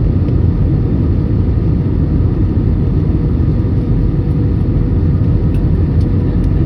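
Steady low rumble of an airliner's cabin noise, engines and airflow heard from inside the passenger cabin, with a faint steady hum above it.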